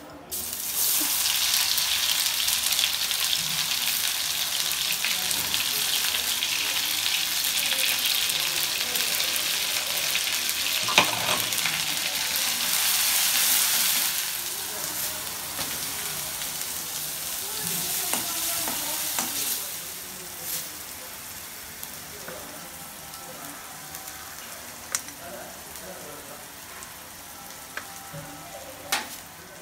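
Ground masala paste sizzles loudly as it hits hot oil in a metal kadai. A perforated ladle stirs it and now and then knocks against the pan. About halfway through the sizzle drops to a gentler, steady frying.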